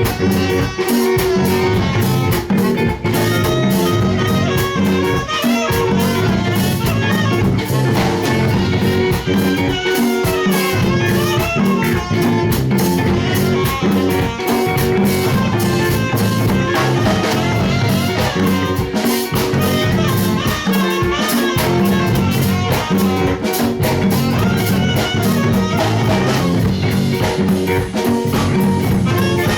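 Live band playing an instrumental passage: guitars, bass and drum kit.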